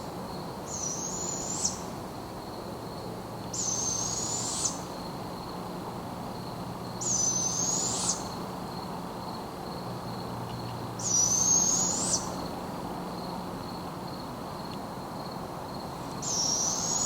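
A bird calling from the trees: a high, harsh shriek about a second long, given five times, every three to four seconds.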